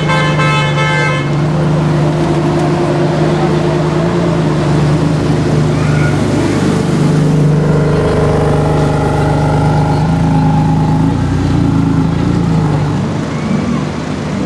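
A car horn sounds at the start and stops after about a second. A car engine then idles in street traffic as a steady low drone whose pitch shifts slightly now and then.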